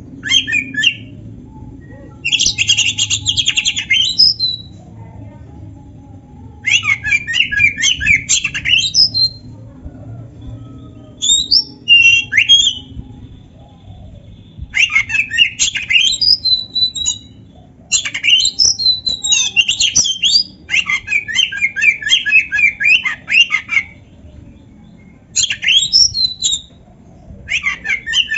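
Oriental magpie-robin (kacer) singing loud bursts of rapid, chattering, pitch-jumping song, each one to three seconds long, with short pauses between them.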